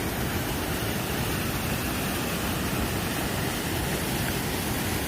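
Creek water rushing over a cascade: a steady, even roar of falling water.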